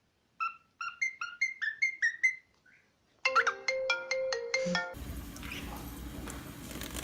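Ringtone-like melody: a run of short falling chirps, about four a second, then after a short gap a quick stepped tune that cuts off suddenly about five seconds in. Steady room hum follows.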